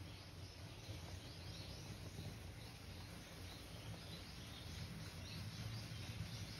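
Faint, scattered bird chirps, many short calls throughout, over a low steady hum.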